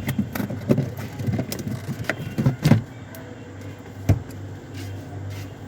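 Clicks and knocks of a fridge's plastic interior panel being opened, the loudest about two and a half and four seconds in. Under them runs a steady low hum from the directly wired compressor, which has been running for about 15 minutes.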